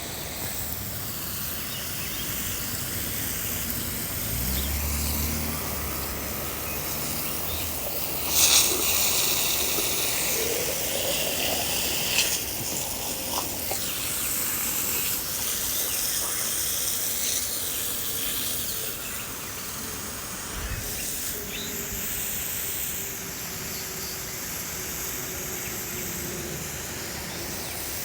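Outdoor background noise: a steady high hiss, louder for a moment about eight seconds in and again around twelve seconds, with a faint low hum slowly falling in pitch near the end.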